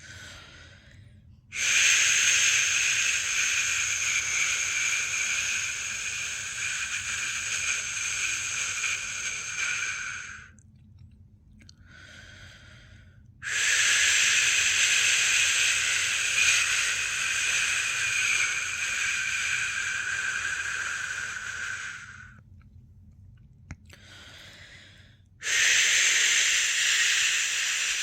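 A person's long, steady 'shh' shushing sound, the kind used to soothe a newborn to sleep. There are three shushes, each about eight seconds long, starting about a second and a half in, about thirteen seconds in and near the end, with short, much quieter pauses between them.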